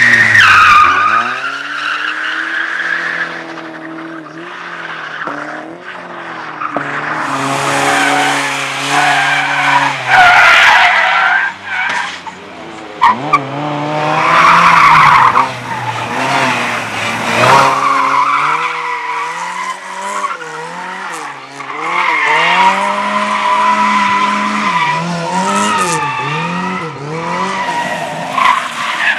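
Slalom car's engine revving hard, its pitch climbing and dropping again and again as it accelerates and brakes through the course, with repeated bursts of tyre squeal as it skids round the turns.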